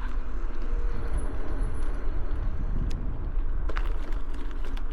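Bicycle tyres rolling over a gravel road, with steady wind rumble on the microphone and a few sharp clicks about three to four seconds in.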